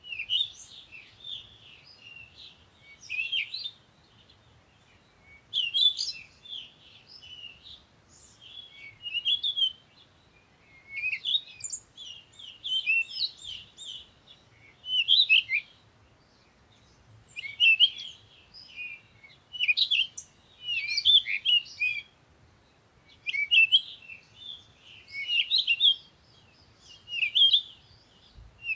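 Songbirds chirping in repeated bursts of quick, high chirps every two to three seconds, with short quiet gaps between the bursts.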